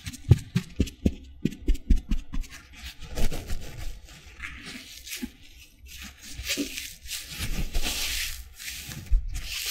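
Sponges handled close to the microphone, first a run of quick crackly clicks, then several longer scratchy rubbing strokes.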